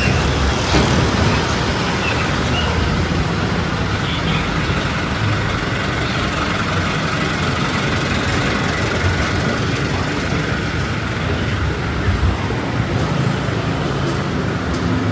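Steady road traffic noise with a low rumble of strong wind on the microphone.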